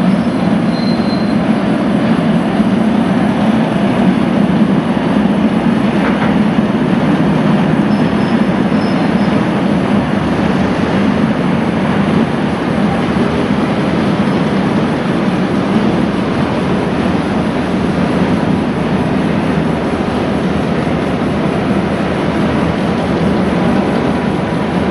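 Heritage train hauled by diesel locomotives crossing a steel truss railway bridge slowly: a steady rumble of wheels and carriages on the rails.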